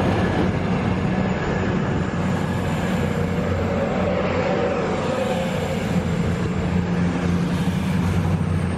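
Diesel passenger train's engines running steadily with a low hum as it pulls away from the platform.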